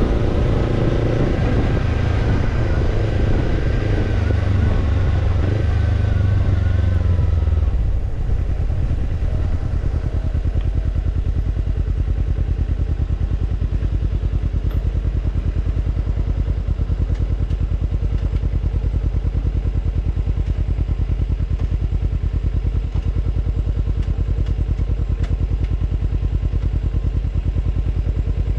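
Kawasaki Ninja 250 parallel-twin engine running through a BEET Japan Nassert Evolution Type II titanium slip-on muffler. It is held at raised revs for the first several seconds. About eight seconds in, it drops to a steady idle with an even exhaust pulse.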